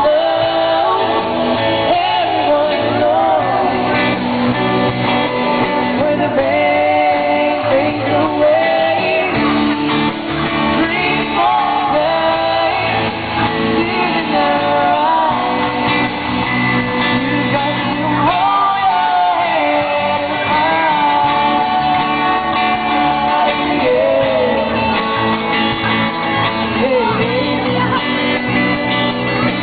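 A band playing live, with a man singing the lead over guitar accompaniment, in the echo of a large hall.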